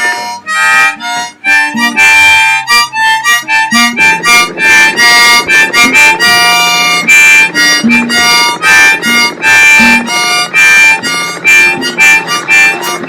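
Harmonica playing a fast instrumental break of short notes and chords over a song's backing, which fills out about four seconds in.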